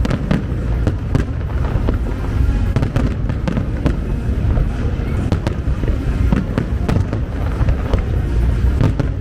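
Fireworks display: a rapid, irregular run of sharp bangs and crackles over a continuous low rumble.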